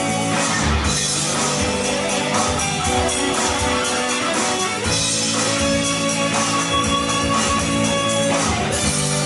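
Ibanez ART-series electric guitar played through a Boss GT-10 multi-effects processor, in a rock style. Sustained notes and chords change about every four seconds.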